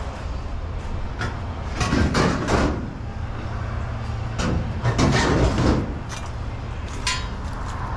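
Scrap metal clattering as pieces are thrown onto a trailer, in two bursts of about a second each and a shorter knock near the end, over a steady low rumble.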